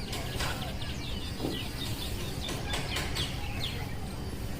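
Small birds chirping in the background, many short chirps scattered throughout, with a few brief swishes from a comb drawn through long, heavily oiled hair.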